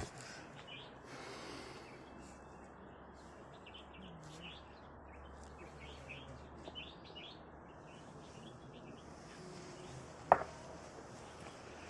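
Small birds chirping in quick, repeated short calls over faint outdoor background noise, with a single sharp knock about ten seconds in.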